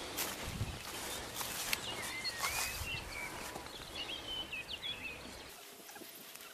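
A small bird chirping in short twittering phrases through the middle, over soft footsteps on a grass path and a low rumble that drops away near the end.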